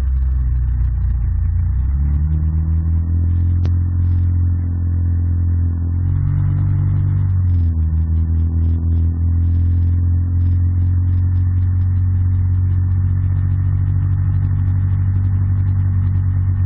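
Yamaha ATV engine running under way, its pitch dropping and picking back up about two seconds in, rising briefly around six to eight seconds, then holding steady.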